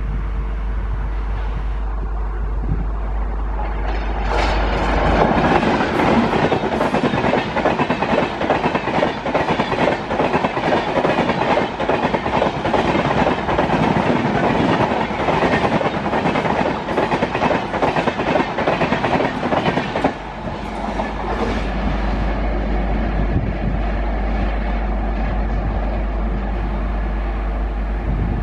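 Passenger express hauled by a WCAM-3 electric locomotive passing at speed. About four seconds in, the coaches' wheels set up a loud, rapid clickety-clack that lasts some fifteen seconds. It then eases into a softer rolling rumble as the last coach draws away.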